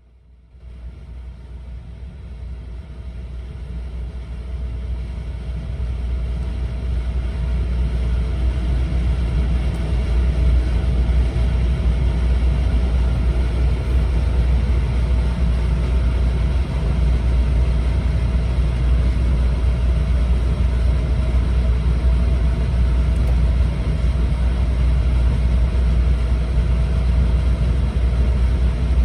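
Cabin running noise of a JR East E4 series 'Max' double-deck Shinkansen: a low rumble that starts about half a second in and swells over the first ten seconds or so as the train gathers speed, then holds steady, with a faint steady hum above it.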